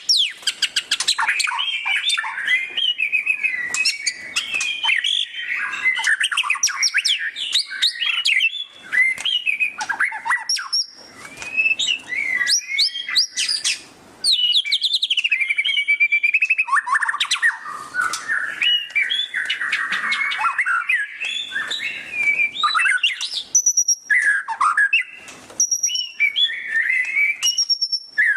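White-rumped shama singing loudly: a fast, varied stream of rapid chattering trills ('ngeriwik') and sharp whistled phrases that sweep up and down, broken by a few short pauses.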